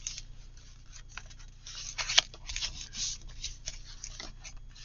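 Cardstock pieces of a paper waterfall pull mechanism rustling and scraping as they are handled and pulled, with a sharp tap about two seconds in.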